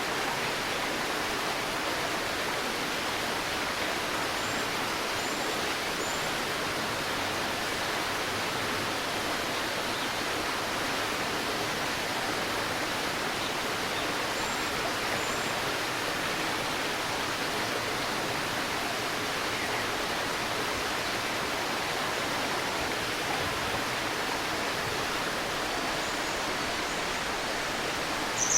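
A shallow stream babbling steadily, with faint, short, high bird chirps now and then.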